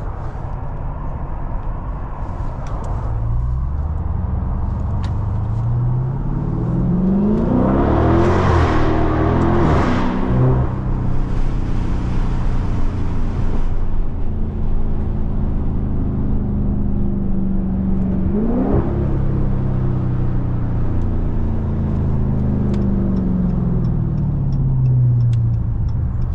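Dodge Scat Pack's 6.4-litre HEMI V8 with its mid-mufflers deleted, accelerating hard: the engine note climbs to a peak about 8 to 10 seconds in and again near 19 seconds, then falls away steadily as the car slows.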